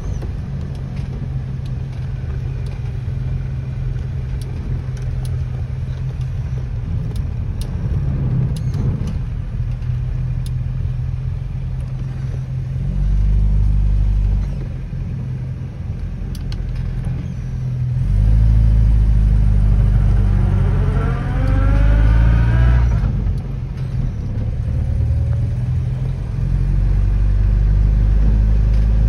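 Rover P4 80's 2.3-litre four-cylinder engine heard from inside the cabin while driving: a steady low drone that gets louder a few times, with one rising engine note as the car accelerates for a few seconds about two-thirds of the way through, which then falls away.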